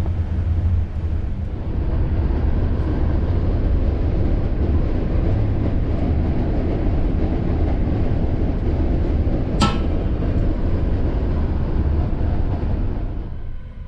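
Passenger train running along the track: a steady low rumble of wheels on rails, with one sharp click about ten seconds in. Near the end the rumble drops away abruptly.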